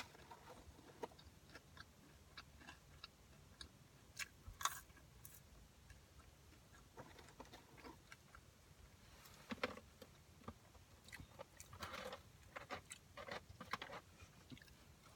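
Faint close-up eating sounds: scattered soft clicks and small crunches of chewing and handling fast food, coming more thickly in the second half.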